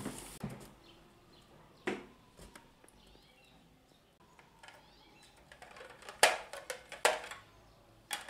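Handling noises of unpacking: scattered sharp knocks and clicks with light rustling, one a little before two seconds in and several louder ones in the last third.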